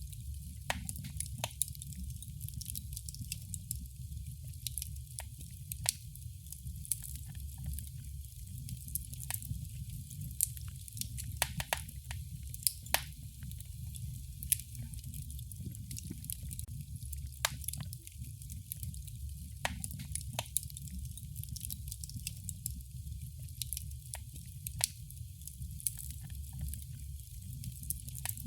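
Wood fire crackling, with frequent sharp, irregular pops over a steady low rumble of the flames.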